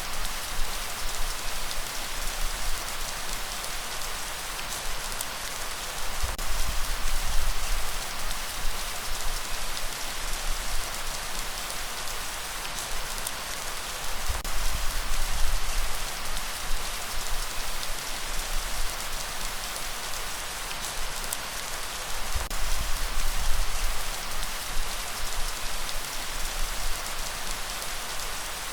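Steady light rain falling, an even hiss of drops with a low rumble that swells and fades every few seconds.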